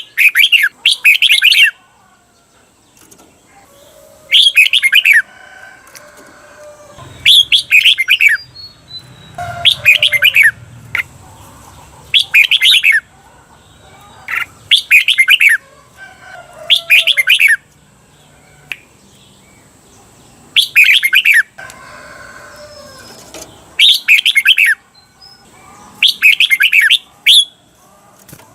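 Red-whiskered bulbul singing: short, loud, bright song phrases repeated every two to three seconds, many given as quick doubled pairs, the 'double' song used to train caged bulbuls.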